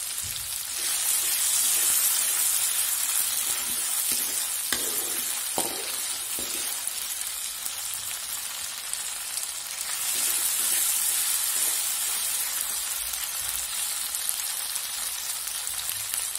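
Freshly ground chili spice paste sizzling in hot oil in a wok, a steady hiss that grows louder twice for a couple of seconds, with a couple of brief clicks near the middle. The paste is being sautéed until fragrant and cooked.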